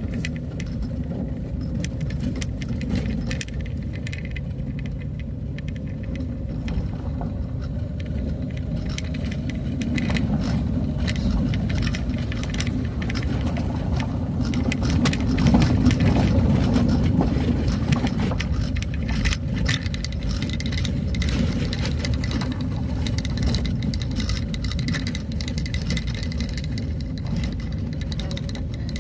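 Vehicle driving along a road: a steady low rumble with frequent rattles and knocks, a little louder about halfway through.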